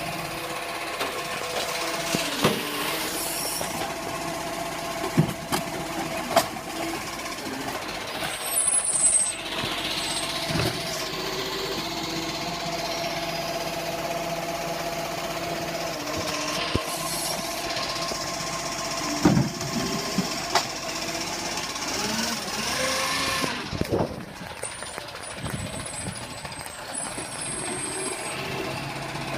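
A truck's engine running steadily, with a clattering mechanical rattle, held tones and several sharp knocks and clanks along the way.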